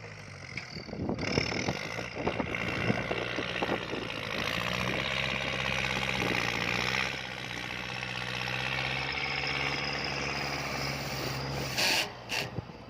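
Kubota L4708 tractor's diesel engine working under load as it pushes a pile of soil: a steady engine note that rises about four seconds in and eases back about seven seconds in, with scraping and knocks, and two short louder bursts near the end.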